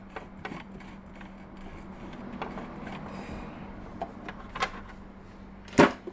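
Small clicks and knocks of a bobbin case being handled and fitted into a Janome 393 sewing machine's hook area, a few light taps spread out and one sharp click near the end.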